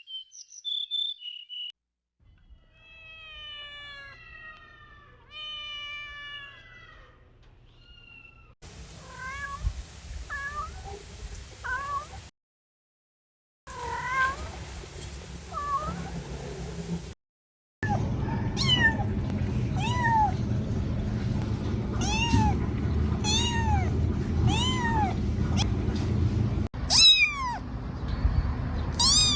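Kittens meowing in a string of short segments split by abrupt silent gaps; in the last stretch the meows come about once a second over a steady background hiss.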